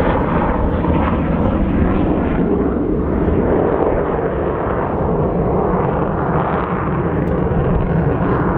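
Avro Vulcan's four Rolls-Royce Olympus turbojets running loud and steady as the bomber flies its display, a dense unbroken jet noise with no rise or fall in level.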